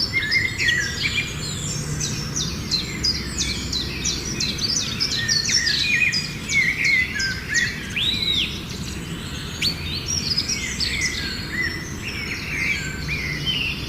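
A songbird singing a fast, varied song of chirps, trills and whistled sweeps, one note after another with hardly a pause.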